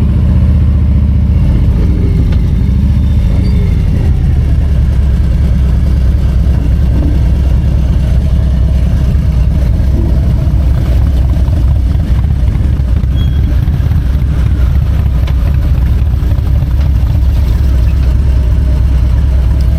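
Harley-Davidson Low Rider ST's Milwaukee-Eight 117 V-twin running, loud, with a steady, even low note and no big revs.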